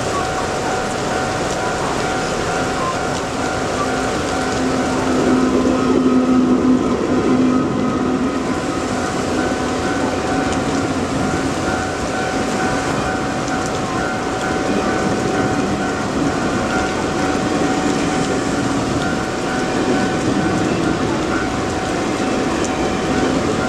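A train passing over a level crossing in heavy rain. Under the noise of the rain and the train, the crossing's warning signal sounds a steady repeating tone throughout. A louder low tone comes in for a few seconds about a quarter of the way in.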